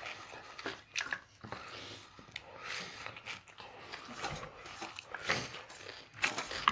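Chewing and biting while eating, with irregular short smacks and clicks.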